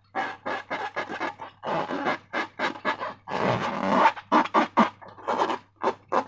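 Slime being squeezed and worked by hand: a run of irregular wet squelches and crackles, several a second.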